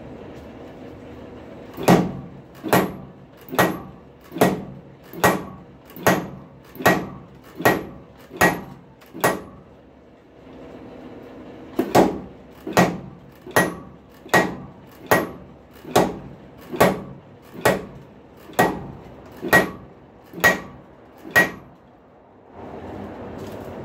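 Treadle hammer striking a hot rail spike on the anvil: ringing metal blows in a steady rhythm, about one every 0.8 s, in two runs of about ten and twelve blows with a short pause between. A steady hum runs underneath.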